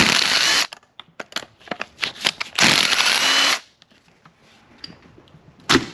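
A cordless power tool runs in two short bursts, the second about a second long, each with a faint rising whine. Scattered clicks of metal parts and tools being handled fall between the bursts.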